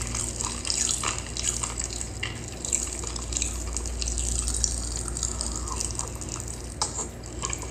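Close, wet chewing and lip-smacking of a mukbang eater working through a mouthful of breakfast food: many short, moist clicks and smacks, over a steady low hum.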